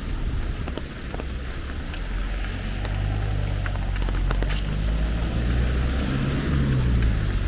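Rain falling, with scattered sharp drip ticks, while a motor vehicle's low engine hum builds up a few seconds in and carries on.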